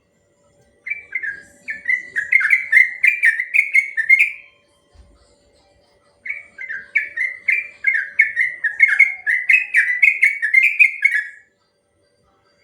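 Trucukan (yellow-vented bulbul) singing its long rolling song: two long phrases of rapid, bubbling notes, each note dropping in pitch, with a pause of about two seconds between them.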